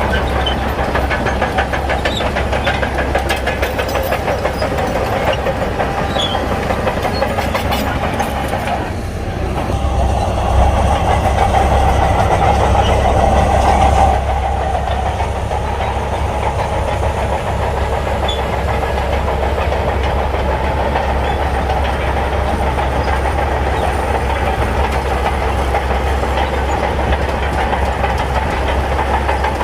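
Shantui crawler bulldozer's diesel engine running steadily with a continuous clatter of its tracks. It grows louder from about ten seconds in, then drops back suddenly about four seconds later.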